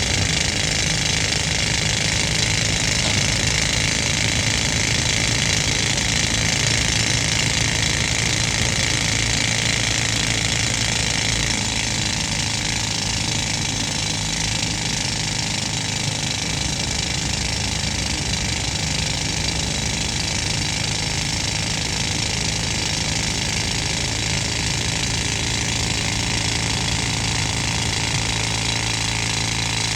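Pneumatic rock drill hammering steadily, driven by an old air compressor whose engine runs underneath with a low, steady hum.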